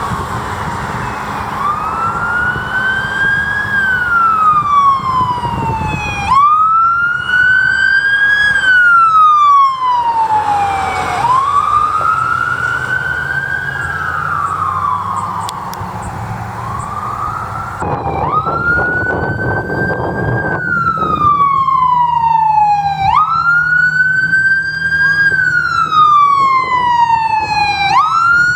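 Emergency vehicle siren in wail mode, pitch rising quickly then falling slowly in a cycle of about five seconds, over a low engine rumble.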